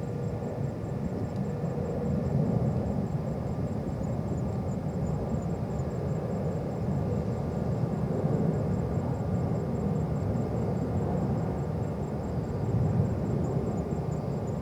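Jet airliner engine noise heard from afar: a steady low rumble that swells slightly now and then.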